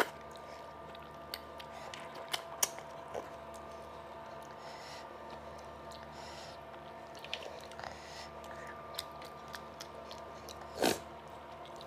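Close-miked eating sounds of rice and fish curry eaten by hand: chewing and wet mouth noises, with fingers squelching rice through the gravy. The sound is made of sparse clicks over a faint steady hum, with one louder sound near the end.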